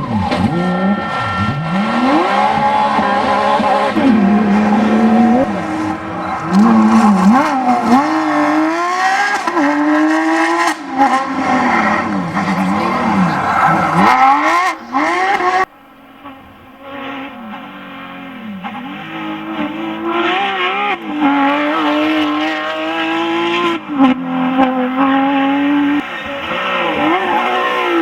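A Porsche 911 GT3 RS's flat-six engine revving hard through gear changes, its pitch climbing and dropping back again and again. About halfway through, the sound cuts abruptly to a quieter, duller recording of the engine working up and down through the revs again.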